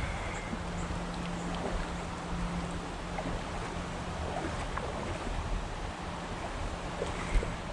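Steady rush of moving river water with wind on the microphone, scattered small clicks, a faint low hum for a couple of seconds early on, and a short knock near the end.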